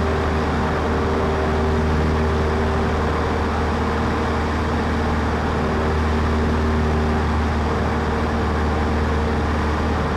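Cessna 152's four-cylinder Lycoming engine running steadily at cruise power, heard from inside the cockpit as an even low drone with a steady hum of engine tones.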